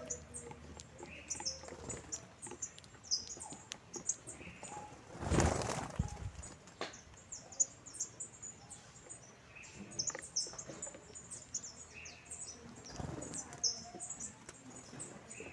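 A flock of saffron finches chirping with many short, high chirps throughout. A brief loud rustling burst comes about five seconds in, and a weaker one near thirteen seconds.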